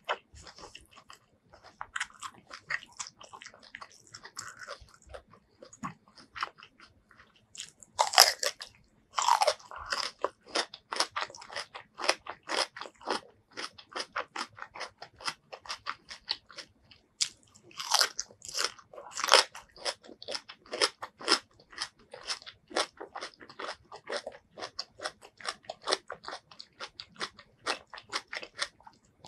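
Continuous crisp, crunchy biting and chewing of food, with the loudest crunches about eight seconds in and again around eighteen to nineteen seconds; a raw red radish is among the food being bitten and chewed.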